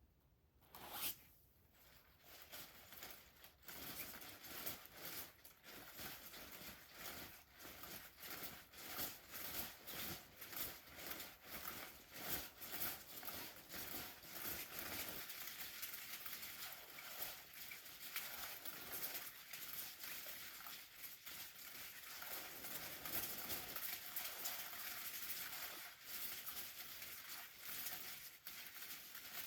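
Dense, irregular rustling and scratching, like fabric or plastic being handled, starting about three seconds in after a single knock about a second in.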